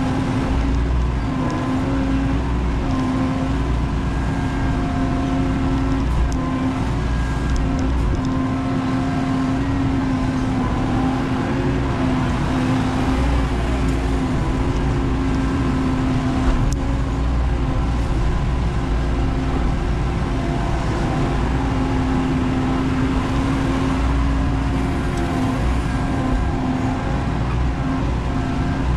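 Menzi Muck spider excavator's diesel engine and hydraulics running steadily under load, a constant drone with a steady whining tone over a low rumble, with a few faint clicks.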